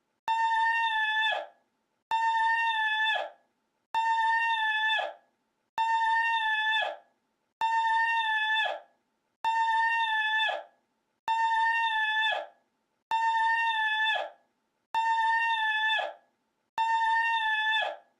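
The same high, held vocal cry repeated over and over as an exact loop, about once every two seconds, ten times in all. Each cry holds one steady pitch for about a second, then falls away and stops.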